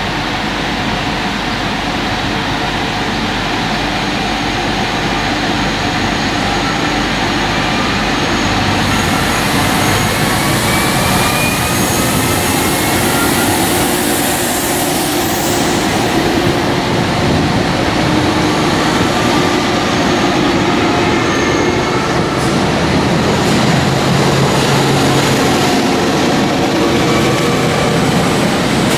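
Alstom Coradia Liner V160 multiple unit pulling away from a station, running steadily and slowly getting louder, with faint whining tones rising in pitch as it gathers speed.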